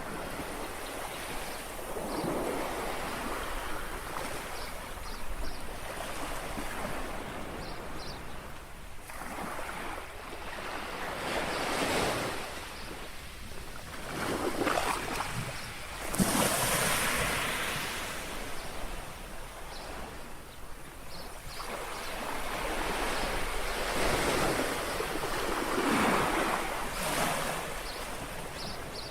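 Small sea waves lapping and washing onto a shore, the noise swelling and fading every few seconds, with the sharpest surge about sixteen seconds in. A light wind rumbles on the microphone underneath.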